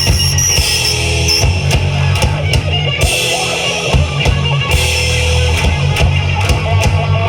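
A live rock band playing loudly: electric guitars, bass guitar and a drum kit in a heavy, driving rock song.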